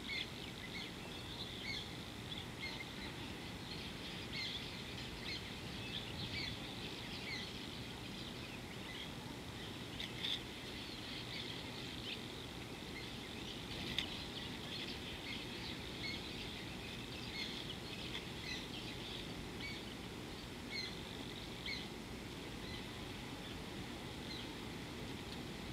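Wild birds chirping: many short, high calls repeated throughout, over a steady low hiss of outdoor ambience.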